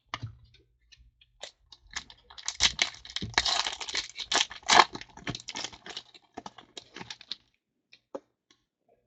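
A trading-card pack wrapper being torn open and crinkled by hand: a dense run of crackling and tearing, loudest in the middle, with scattered clicks before and after.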